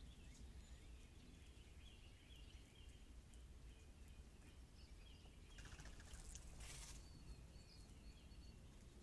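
Faint outdoor ambience with a low steady rumble and distant birds chirping in short repeated calls. A brief burst of hissing noise comes about six seconds in.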